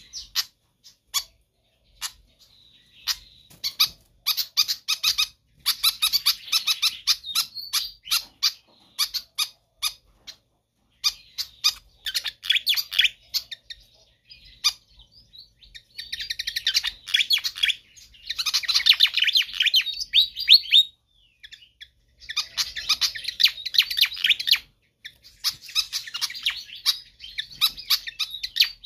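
Fantail (sikatan kipas) singing persistently in full voice: rapid, high chattering trills in phrases of one to three seconds, with single sharp chips between them. The loudest phrase comes about two-thirds of the way through.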